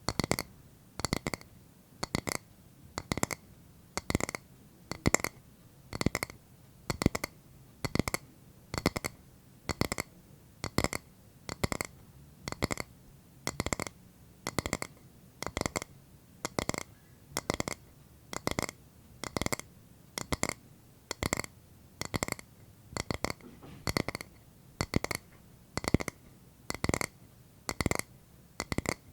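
ASMR tapping on a hard object: quick double taps repeating about once a second, each with a short clear ring.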